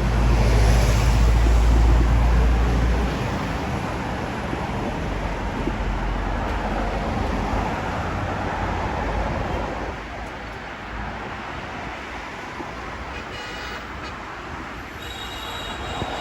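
Road traffic and wind noise heard from a moving motorbike, with heavy low wind buffeting on the microphone for the first three seconds. Near the end, a short high-pitched tone sounds twice.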